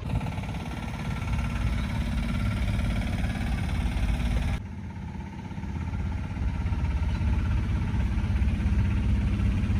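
Heavy truck diesel engine idling steadily, a low rumble with a fast even pulse. About halfway through the sound changes abruptly, the higher hiss dropping away while the low rumble continues.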